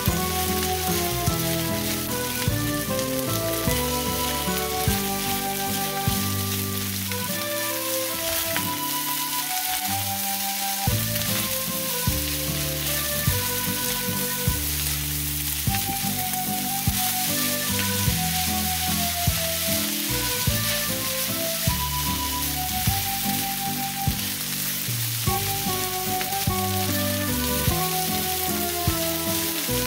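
Fried rice sizzling steadily in a hot pan as it is stirred and tossed with silicone spatulas, under background music with a melody and a steady beat.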